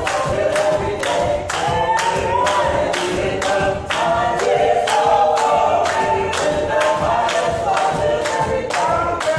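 A gospel choir singing a cappella, many voices together, over a sharp steady beat of about three strikes a second.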